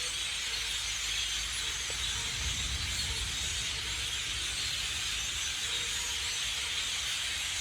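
A large flock of blackbirds, hundreds of birds, calling all at once from the trees: a dense, steady chatter of chirps and whistles. A low rumble runs underneath.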